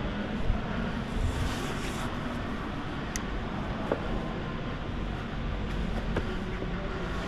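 A steady low rumble of wind and handling on the microphone, with a few scattered sharp clicks.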